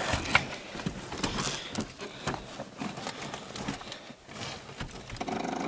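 Ford Tempo being started on a weak or dead battery: scattered light clicks and knocks, then about five seconds in a steady buzzing drone as the key is turned and the starter struggles without the engine catching.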